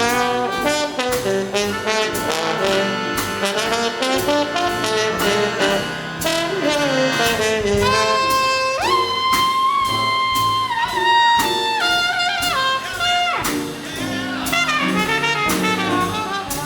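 Big band playing swing jazz live: brass and saxophone sections over drums keeping a steady beat. About halfway through, the horns hold a long sustained chord for several seconds, then the busy ensemble playing resumes.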